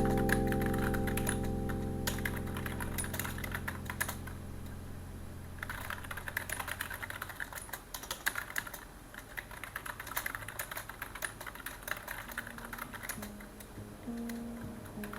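Typing on a computer keyboard: rapid runs of key clicks, breaking off for about a second and a half around four seconds in, then going on. Soft background music, a held chord fading away over the first several seconds and new notes coming in near the end.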